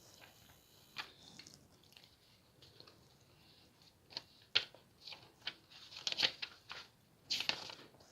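Paper rustling and crinkling in a series of short, irregular handling noises as the pages of a camera instruction booklet are leafed through, busiest in the second half.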